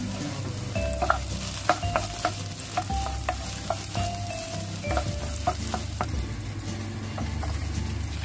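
Sliced shallots, garlic and chillies sizzling in hot oil in a pan while a wooden spatula stirs them, with repeated knocks and scrapes of the spatula on the pan, most of them in the first two thirds.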